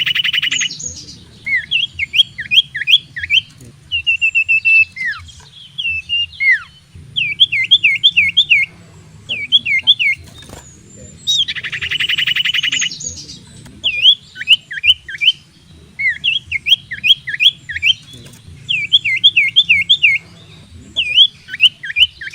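Common iora (cipoh) song: runs of quick, swooping whistled notes repeated over and over, with a fast buzzy trill lasting about a second at the start and again about twelve seconds in.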